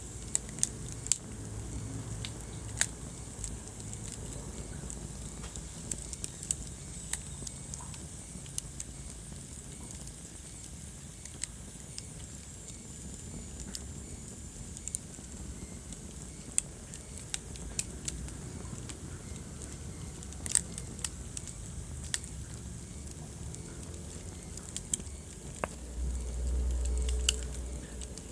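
Wood fire crackling in a fireplace: irregular sharp pops and snaps over a low steady rumble, which swells for a second or two near the end.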